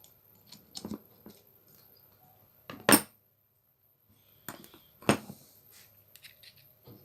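Metal tools and small angle-grinder parts being handled: scattered light clicks with two louder metallic knocks, about three and about five seconds in.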